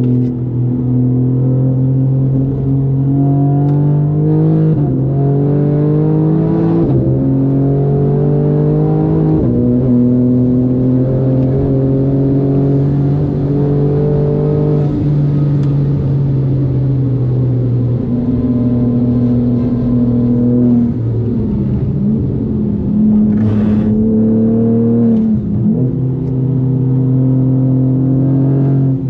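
BMW M4 G82's twin-turbo straight-six, tuned to about 630 wheel horsepower, pulling hard through the gears. The engine note climbs steadily in pitch and drops abruptly at each gearshift, several times over.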